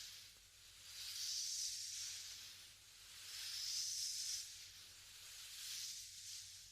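Soft breathy blowing of air close to a binaural ASMR microphone: three long, gentle breaths that swell and fade.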